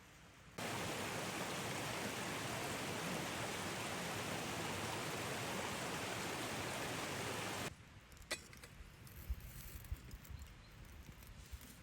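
A steady, even rushing noise starts abruptly about half a second in and cuts off suddenly about three quarters of the way through, followed by a few faint clicks.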